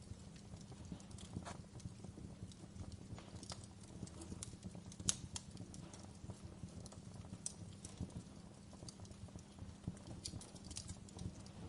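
Wood fire burning in a fireplace: a steady low rumble of flames with irregular crackles and pops from the logs, the loudest pop about five seconds in.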